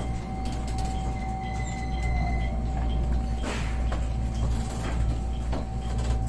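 JR West 125 series electric train heard from the cab: a steady low rumble with a steady whine, and a short hiss about halfway through.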